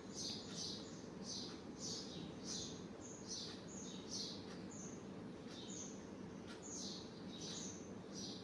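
A small bird chirping over and over, about two short high chirps a second, some dropping in pitch and some held level, against a faint steady background.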